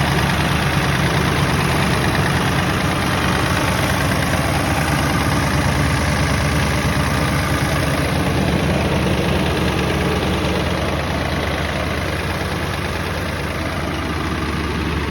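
1997 Ford F-350's 7.3 L Power Stroke turbo-diesel V8 idling steadily.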